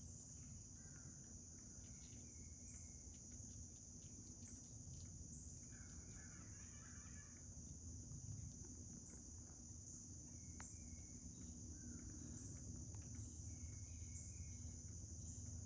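Steady, high-pitched drone of an outdoor insect chorus, with a few faint short bird chirps scattered through it.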